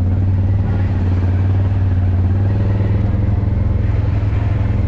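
Off-road vehicle engine idling steadily, an even low hum with no revving.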